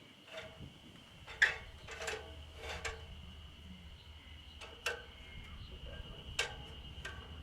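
Scattered sharp light knocks and clicks, about six of them, the loudest about a second and a half in, over a steady faint high-pitched tone.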